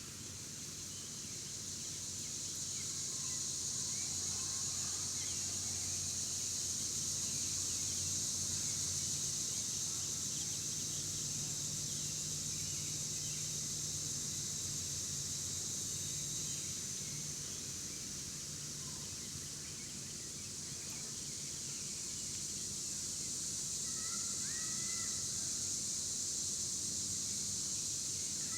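Backyard outdoor ambience: a steady high-pitched drone with a low hum beneath it and a few short bird chirps near the end.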